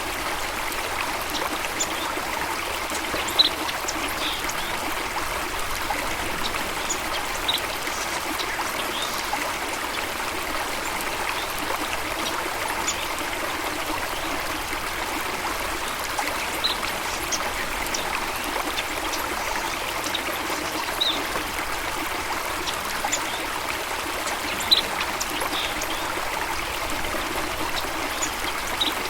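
Steady running water with short, high bird chirps scattered every few seconds.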